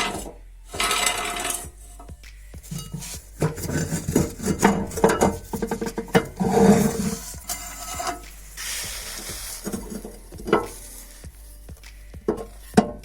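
Welding on steel: stretches of crackling, sizzling arc with sharp metallic knocks and clanks in between, over background music.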